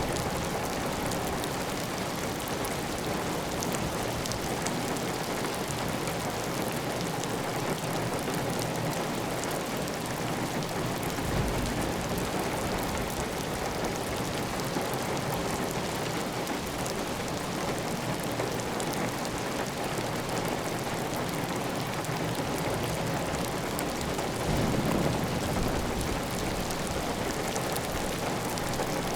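Steady heavy rain on a clay tile roof, water running off the roof edge. A short, louder low swell comes about four seconds before the end.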